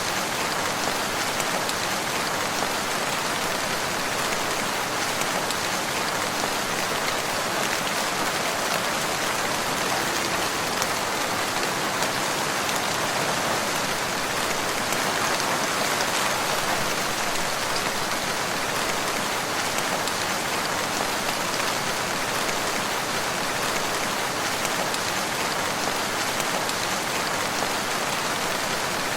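Steady rain falling on a surface, an even pattering hiss with no change or distinct events.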